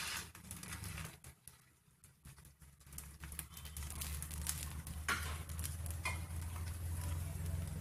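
Rava uttapam faintly sizzling on a hot tawa over a steady low hum, with a metal spatula pressing the toppings into the batter in the first second.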